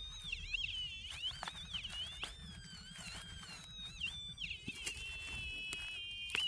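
Minelab Manticore metal detector sounding its target tone over a buried signal. The pitch wavers up and down for the first few seconds, then holds one steady high tone from about two-thirds of the way in.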